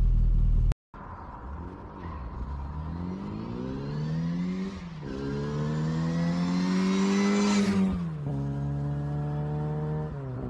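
Car engine accelerating through the gears: its pitch climbs, drops at a gear change about five seconds in, climbs again to a peak about eight seconds in, then drops and holds at a steadier cruise. Before this, a low driving rumble cuts off suddenly under a second in.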